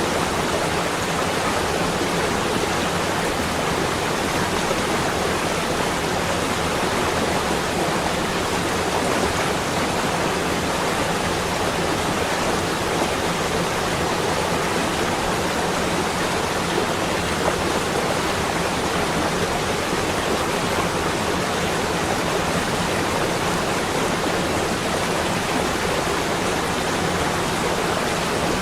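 Steady, even rushing noise with no breaks, rhythm or distinct events: a constant ambience track.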